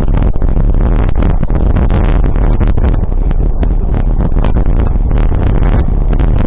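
Loud, rough rumble of a vehicle on the move, with crackling and buffeting throughout.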